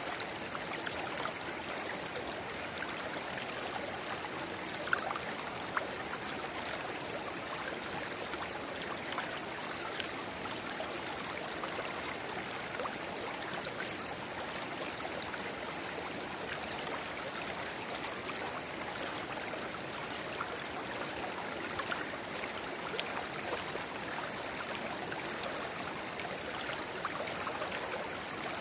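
A shallow river babbling steadily, with a small spring-fed rivulet trickling into it. It is a continuous rushing of water with scattered small splashes.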